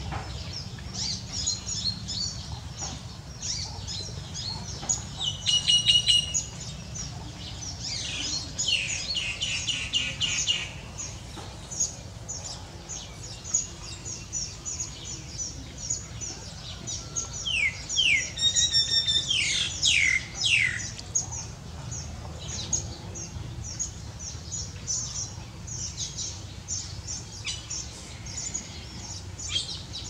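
Weaver birds chirping, a steady stream of short high chirps, with louder rapid chattering runs about six seconds in and again around eighteen to twenty-one seconds in.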